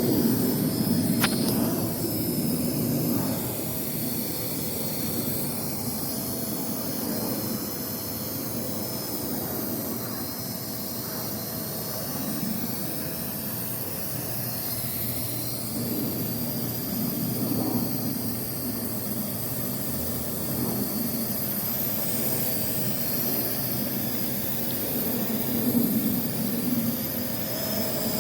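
Parrot AR.Drone 2.0 quadcopter's four electric motors and propellers running, a steady whir with a high whine.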